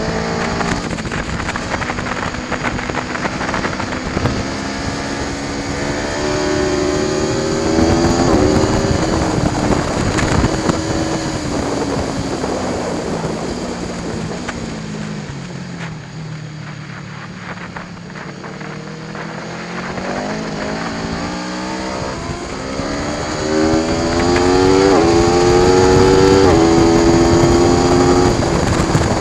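Aprilia Tuono V4 1100 Factory's V4 engine pulling hard through the gears, its pitch climbing and dropping back at each upshift. In the middle it slows with the pitch falling for several seconds, then it accelerates up through the gears again and is loudest near the end.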